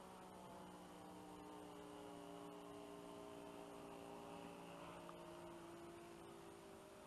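Faint, steady drone of an RC model airplane's engine, its pitch drifting slowly up and down.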